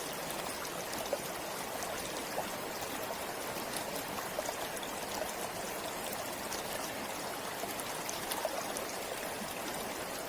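Forest river or stream flowing steadily, with a constant rush of water and small splashes and trickles over it.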